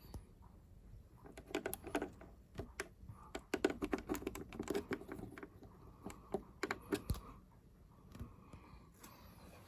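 A run of irregular light clicks and taps from small hard objects being handled, thickest in the middle of the stretch.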